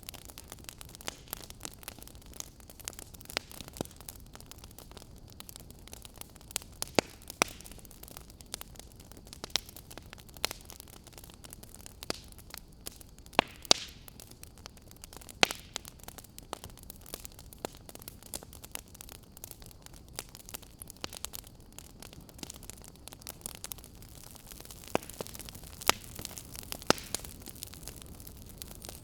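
Wood fire crackling in a fireplace: irregular sharp pops and snaps, a few of them much louder, over a steady low hiss and rumble.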